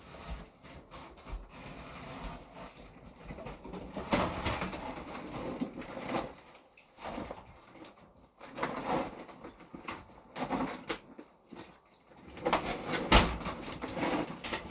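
Irregular scuffing, rustling and handling noises of someone moving about, with a sharp knock about thirteen seconds in.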